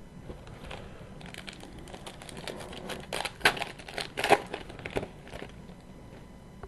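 Wrapper of a hockey card pack being torn open and crinkled, a run of sharp crackles that is loudest about three and a half to four and a half seconds in.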